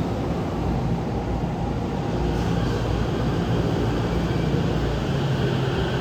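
JR East E231-series commuter train giving off a steady low rumble and hum, with no horn blast.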